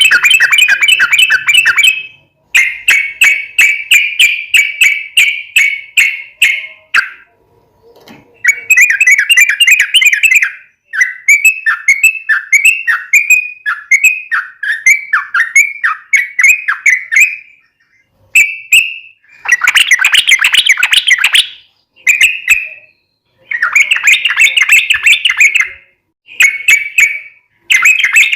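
Yellow-vented bulbul (trucuk) singing loudly: rapid chattering phrases of a few seconds each, broken by short pauses, with a stretch of short falling notes at about two a second near the middle.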